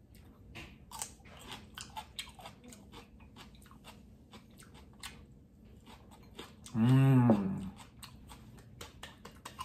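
Crisp crunching bites and chewing of raw green bell pepper slices. About seven seconds in comes a short, loud hummed 'mmm' whose pitch rises then falls.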